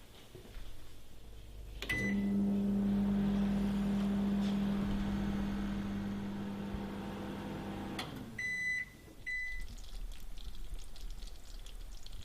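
Microwave oven started with a short keypad beep about two seconds in, then running with a steady hum. It stops with a click about eight seconds in and gives two end-of-cycle beeps.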